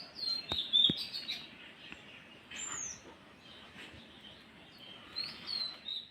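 Small birds chirping and tweeting in quick high clusters near the start and again near the end, with a single higher whistled note in between. Two sharp clicks come just under a second in.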